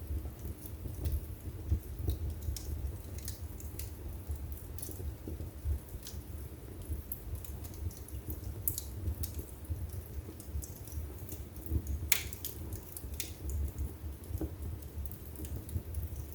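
Wood fire burning in a fireplace: a steady low rumble of the flames with irregular crackles and small pops from the burning logs, one sharper snap about twelve seconds in.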